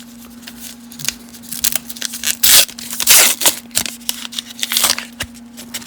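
Foil wrapper of a 1990 Upper Deck baseball card pack being torn open and crinkled, with cards being handled and shuffled: a string of rustles and rips, loudest between about two and a half and three and a half seconds in, over a faint steady hum.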